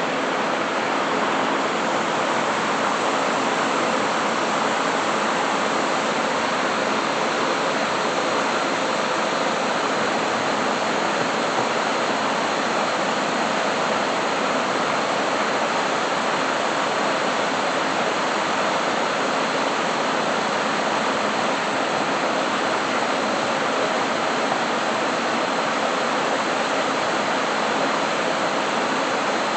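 Steady, loud hiss in a welding shop, unchanging throughout.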